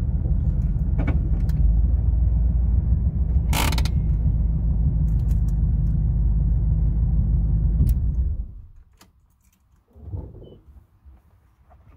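GMC Vandura / Chevy G20 van's V8 engine running at a steady low rumble, heard with a sharp click about a third of the way in. The engine is then switched off about two-thirds of the way through, and the rumble cuts off suddenly. Faint knocks and creaks of the van's cabin follow.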